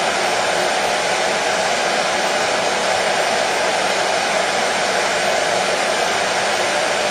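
Hair dryer running steadily, a constant whooshing fan noise with a hum-like band in the middle of the range, used as a soothing sleep sound for colicky babies.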